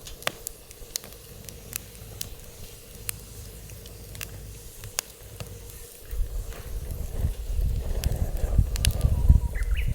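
Wood fire crackling in a fire pit, with sharp irregular pops throughout. From about six seconds in, wind buffets the microphone with a low rumble that grows louder.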